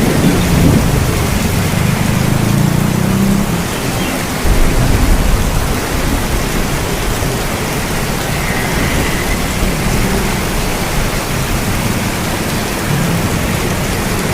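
Steady heavy rain hiss with low rolling thunder rumbles, the strongest at the start and another about four and a half seconds in.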